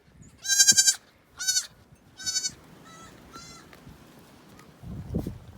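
Newborn goat kids bleating: five high-pitched bleats in quick succession, the first the loudest and the last two fainter. A short dull low thump near the end.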